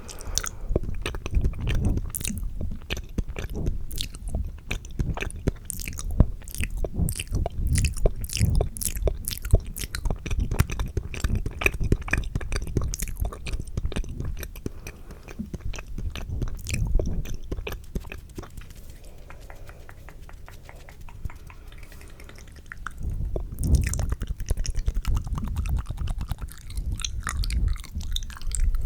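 ASMR mouth sounds close to the microphone: fast, wet clicks and smacks of lips and tongue. They come in rapid runs, ease off for a few seconds past the middle, then pick up again.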